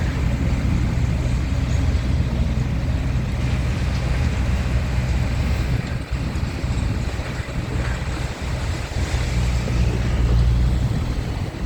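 Diesel engine of a scrapyard grapple machine (the claw) running with a steady low hum, getting a little louder about ten seconds in.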